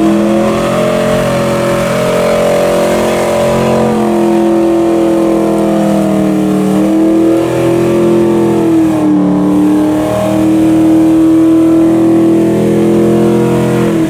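A vehicle engine running at raised revs, held fairly steady with a few gentle rises and falls in pitch.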